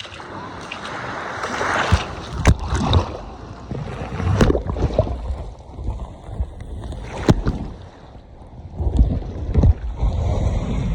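Gusty wind buffeting the microphone, an irregular rumble that swells and fades, with several sharp knocks.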